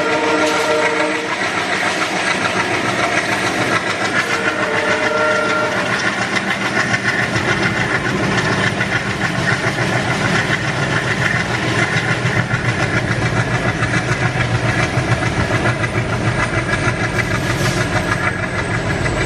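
Indian Railways train sounding two blasts of its horn, one at the start and another about four and a half seconds in, then passing with a heavy rumble and fast rhythmic clatter of wheels over the rail joints.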